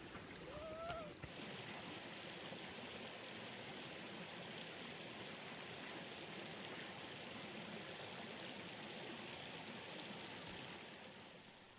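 A short cat meow, then a steady rush of running water that starts abruptly about a second in and fades away near the end.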